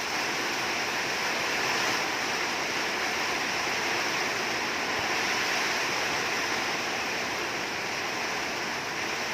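Rain falling in a very strong wind: a steady rushing noise with no let-up.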